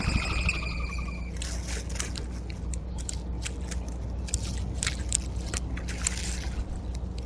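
A short bird call with a slight downward slide opens the sound, followed by many small irregular clicks and scrapes of birds and squirrels feeding at a seed feeder.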